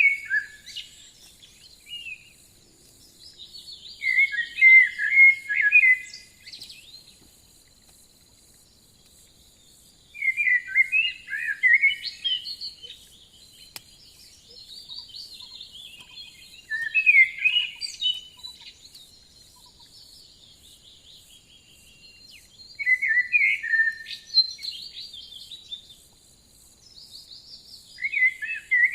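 A songbird singing: loud, busy phrases of two to three seconds, repeated about every five or six seconds, over a faint steady high hum.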